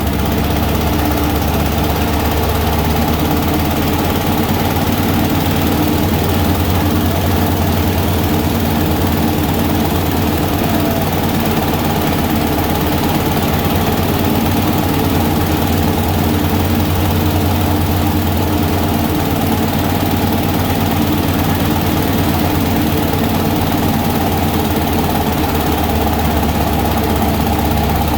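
Rice-bran flour mill driven by a diesel engine, running steadily at constant speed.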